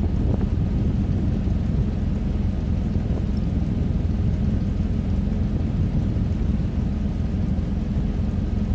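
Old plow truck's engine running steadily, a low even rumble.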